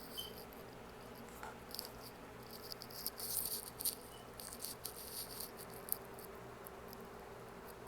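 Close-miked eating sounds: quick, sharp clicks and crackles of chewing and handling food, busiest around the middle, over a faint steady hum.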